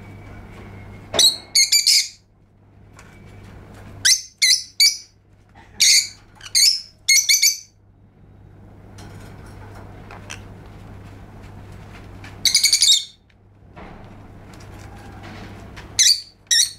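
Lovebird calling in shrill, high chirps that come in quick clusters of two to four notes, five times, over a steady low hum.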